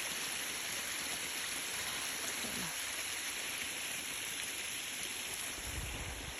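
Small waterfall under a footbridge: water falling and splashing in a steady rush, with a low rumble near the end.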